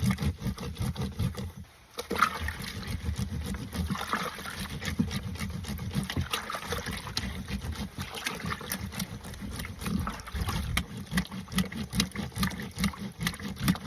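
Water sloshing and trickling as laundry is washed, with irregular splashes and knocks.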